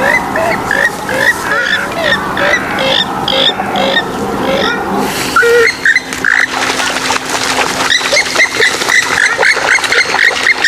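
Swamphen and moorhen calls: runs of short, quickly repeated calls. Just after the middle they turn harsher and noisier, then the quick repeated notes return.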